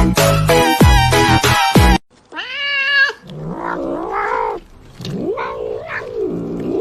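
Music with a heavy beat that cuts off suddenly about two seconds in, followed by a domestic cat yowling in several long, wavering calls that rise and fall in pitch.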